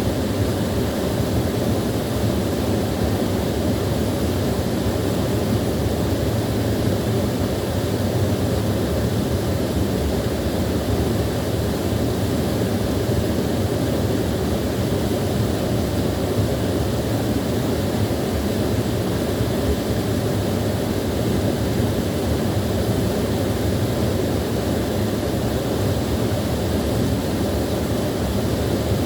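Small waterfall: water pouring and splashing in a steady, unbroken low rush.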